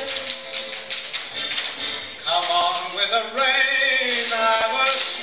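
Voices singing over a steady hiss; about two seconds in, the singing grows louder with long, wavering held notes.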